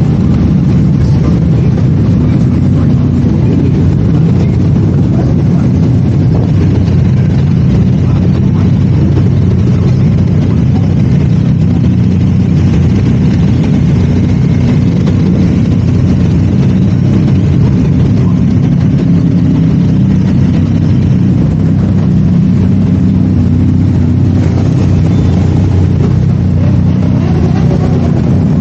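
2019 Yamaha R3's parallel-twin engine, with an aftermarket full exhaust system, running at steady revs without big revving.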